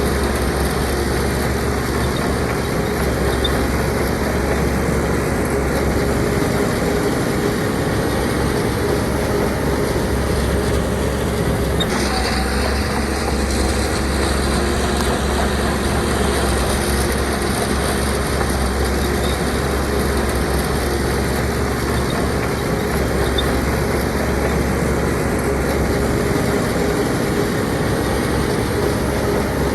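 Diesel engine of a Shantui DH17C2 bulldozer running steadily. A short click comes about twelve seconds in, after which the sound shifts slightly.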